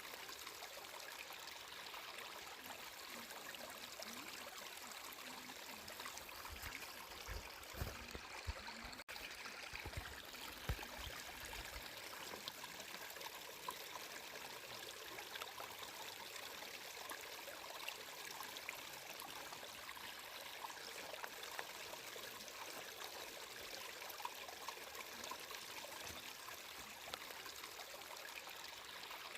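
A stream of water flowing and trickling steadily, with a few soft low thuds about a third of the way in.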